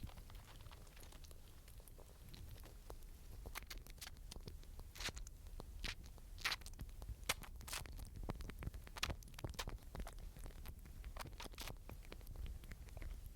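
Small animal foraging close to the microphone: irregular crunching and crackling clicks, denser and louder in the middle, over a low rumble.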